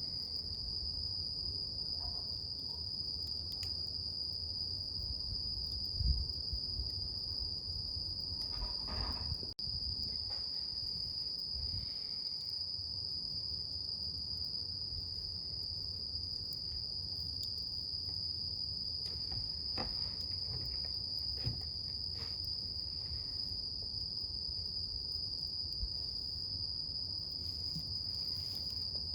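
Crickets trilling steadily in one unbroken high-pitched tone, over a wood fire's low rumble and a few scattered pops and crackles.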